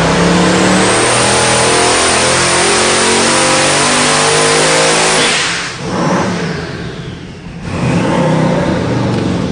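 Boosted LSX small-block V8 engine running hard at full throttle for about five seconds, then dropping off and revving back up near the end.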